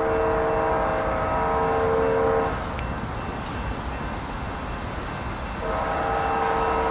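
Lead diesel locomotive's multi-chime air horn sounding a long blast that stops about two and a half seconds in, then sounding again about three seconds later. The train's low rumble runs underneath.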